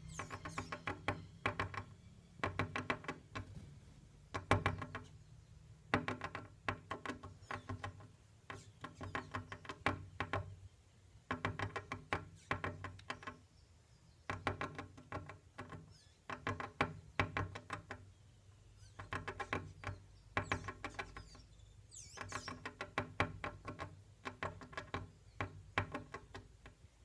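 A bird calling over and over in short bursts of rapid, evenly spaced notes, one burst every second or two.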